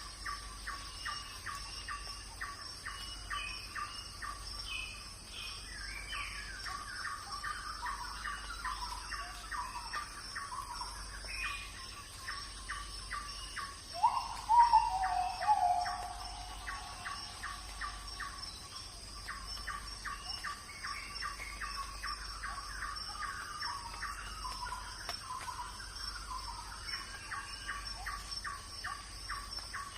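A forest wildlife chorus: trains of rapid pulsed calls, about five a second, over a steady high insect drone. Around the middle comes one louder, drawn-out call.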